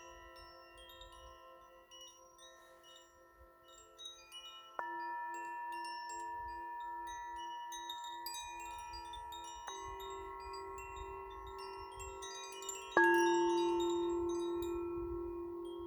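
Wind chimes tinkling with many small high pings, while deeper chime tones are struck three times, the last and loudest near the end; each rings on and fades slowly with a wavering beat.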